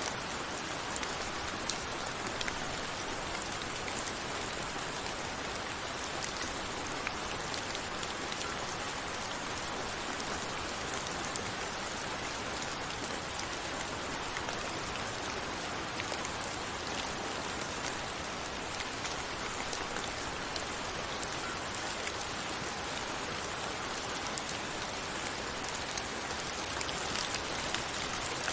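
Steady rain falling, a constant hiss with many fine drop ticks on a surface.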